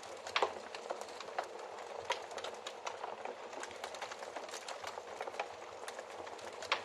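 Wood fire crackling in a fireplace: a steady hiss of burning with frequent small snaps and a few louder pops, one about half a second in, another about two seconds in and one near the end.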